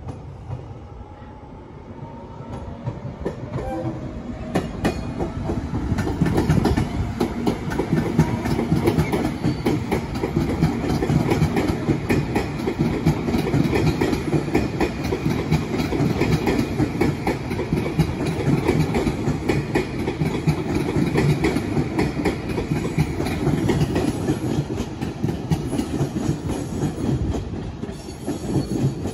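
JR Shikoku 8000 series electric train passing close by: wheels rumbling and clicking over rail joints and points, building up over the first few seconds and easing off near the end. A steady high whine runs through the passing and drops in pitch near the end.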